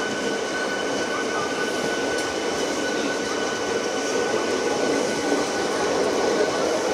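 Indian Railways passenger coaches of a departing express rolling past along the platform: a steady rumble of wheels on rail with a thin steady whine above it, growing slightly louder toward the end.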